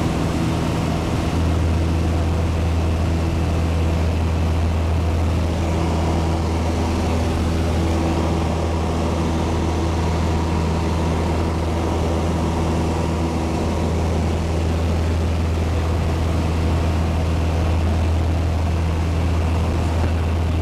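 Piper Cherokee's piston engine and propeller running steadily, a loud low drone heard from inside the cabin; the deepest hum grows stronger about a second in.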